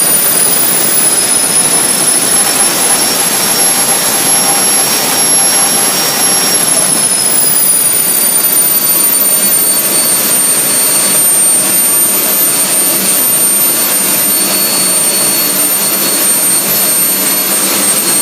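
Engine on a test run: a loud, steady rush of noise with a high whine over it. The whine climbs a little over the first few seconds, then falls back about seven seconds in and holds steady.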